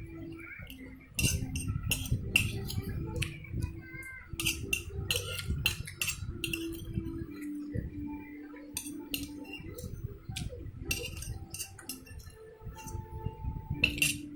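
Close-up eating sounds: cutlery clinking irregularly against a plate and dishes, over chewing.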